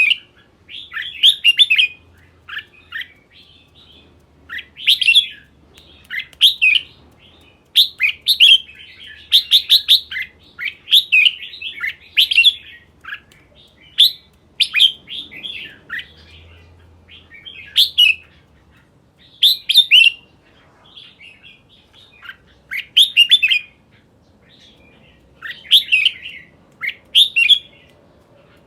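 Red-whiskered bulbul singing: short, loud phrases of quick, sharp whistled notes, repeated every second or two with brief pauses.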